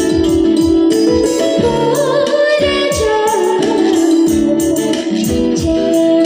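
A young girl singing with a wavering, held line over band accompaniment of keyboard, guitar and tambourine with a steady beat.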